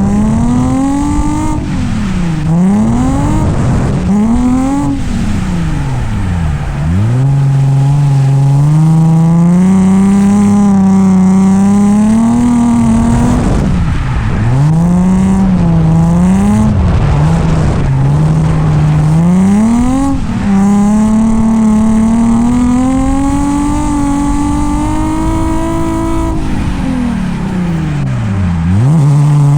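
Nissan 350Z's V6 engine revving hard through a drift run. Its pitch drops sharply and climbs back several times between long stretches held at high revs.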